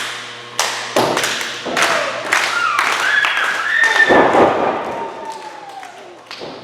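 A run of heavy thuds and slaps from a wrestling ring, echoing in a large hall, several in quick succession over the first few seconds. A drawn-out shouting voice rises and falls in pitch near the middle.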